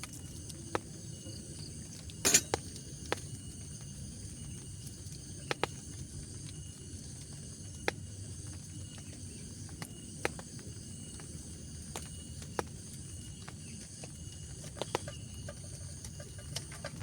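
Insects trilling steadily at several high pitches over a low, even background noise, with scattered sharp taps, the loudest about two seconds in.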